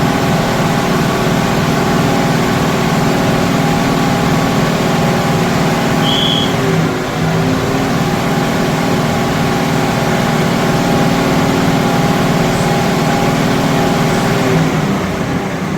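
Diesel train engine running steadily, with a brief high-pitched tone about six seconds in.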